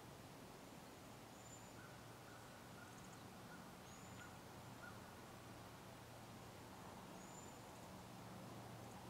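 Near silence in woodland with faint bird calls: a quick run of about six short notes, and a few thin, very high chirps spread out through the quiet.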